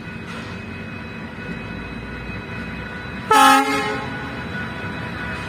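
Steady rumble of machinery, broken a little past the middle by one loud horn blast lasting about half a second.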